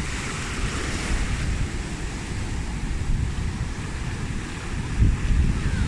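Sea surf washing on a beach, with wind buffeting the microphone in a low rumble; a stronger gust about five seconds in.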